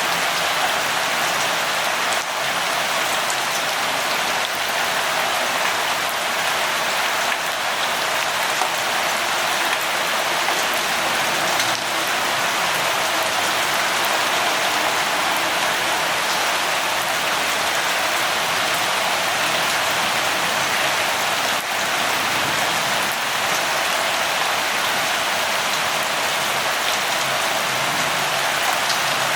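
Steady light rain falling, an even, dense patter of drops with no change in intensity.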